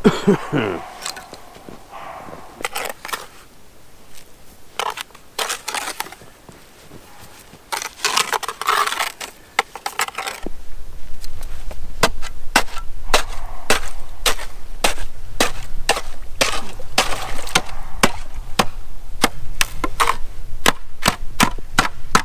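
Ice on a frozen horse water trough being broken with repeated sharp strikes, about two a second from about halfway in. Scattered cracks and knocks come before that.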